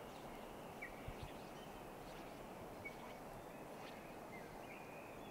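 Faint steady outdoor hiss with a few short, high bird chirps scattered through it.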